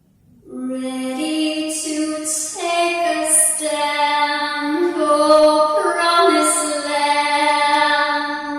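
A woman singing solo in long, held notes with gliding pitch, coming in about half a second in.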